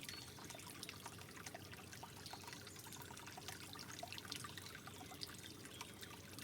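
Water trickling softly: a steady gentle wash with many small drips and droplet splashes scattered throughout.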